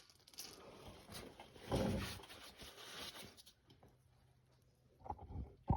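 Faint rustling and handling noises of parts being moved by hand, with one louder scuff about two seconds in, then near quiet.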